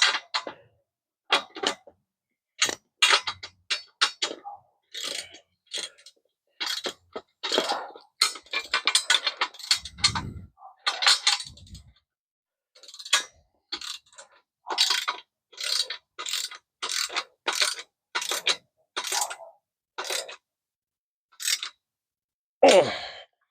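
Ratchet wrench clicking in short, irregular bursts of strokes while a set of bolts is tightened, with a denser run of clicks about a third of the way in.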